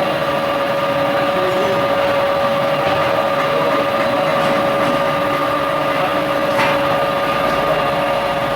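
Crankshaft grinding machine running steadily while it grinds a large compressor crankshaft, a constant mechanical whine over a dense grinding hiss, with one short click about two-thirds of the way in.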